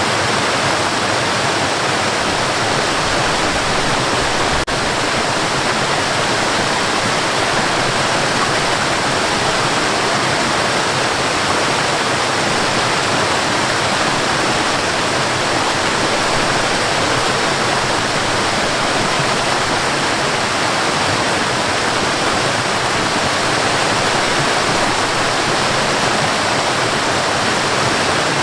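Waterfall: water falling and splashing in a steady, dense rush, with one brief dip about four and a half seconds in.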